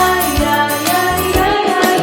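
Children's Sunday school worship song: singing over a backing track with a steady beat about once a second.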